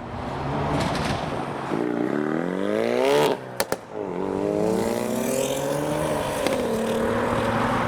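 Ford Focus RS accelerating away hard, its engine note rising through one gear, dropping at the shift with two sharp exhaust pops, then rising through the next gear before settling into a steady cruise.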